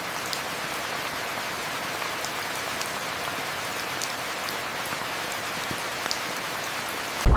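Steady rain falling, an even hiss with scattered faint drop ticks. It stops abruptly near the end.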